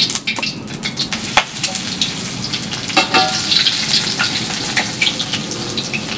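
Tempeh slabs sizzling and crackling in hot used cooking oil in a wok. A metal spatula clinks against the wok, most sharply about three seconds in.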